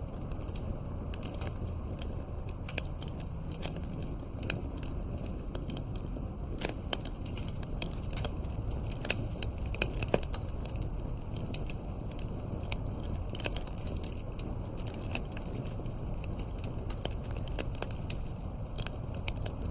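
Campfire burning steadily: a low rumble of the flames with frequent irregular crackles and sharp pops of burning wood.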